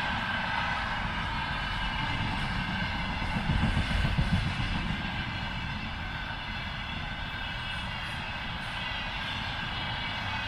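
Container freight train rolling past, a steady rumble of wagons on the rails that swells briefly about four seconds in.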